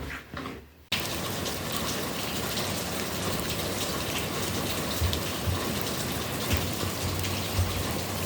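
Steady rushing water, starting abruptly about a second in and cutting off abruptly near the end, with a few low knocks in the second half.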